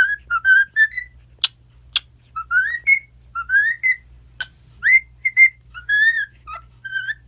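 Cockatiel whistling a quick run of short, mostly rising notes, broken by a few sharp clicks.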